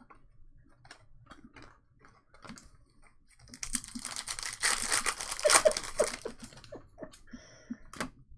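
Trading cards and packaging being handled: light clicks and taps, then about three seconds of loud crinkling of a foil card-pack wrapper starting a few seconds in, followed by more clicks.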